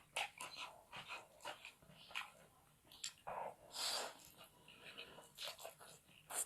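Close-miked mouth sounds of a person eating fried rice stick noodles: wet chewing and lip smacks, many short clicks, with a longer, louder noisy burst about three seconds in.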